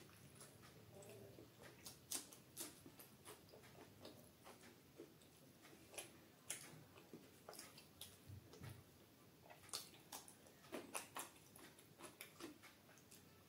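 Close-miked mouth sounds of someone eating butter paneer with naan: soft chewing with many sharp, irregular clicks and smacks.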